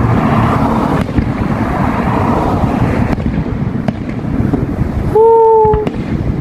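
Wind buffeting the microphone in a steady low rumble, with a few faint, sharp firework bangs from a distant display about a second in and again around three and four seconds in.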